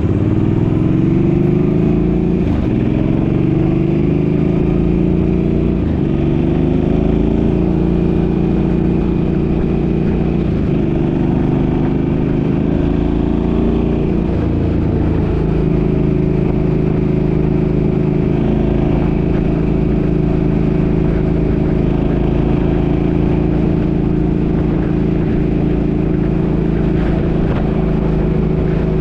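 Suzuki's engine accelerating up through the gears. Its pitch climbs and drops back at each of four or so shifts over the first fifteen seconds, then it runs at a steady cruise. Wind rumbles on the microphone throughout.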